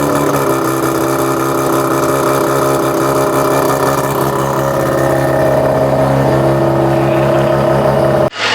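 A Mazda RX-7 FC3S's naturally aspirated, half-bridge-ported 13B rotary engine running at idle, its pitch stepping up slightly about half a second in and again near six seconds. It cuts off abruptly near the end.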